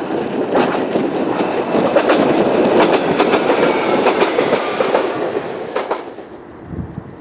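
JR Kyushu 817 series electric train running by, its wheels clattering over rail joints in a loud, busy rumble. The rumble falls away about six seconds in, leaving a faint steady high tone.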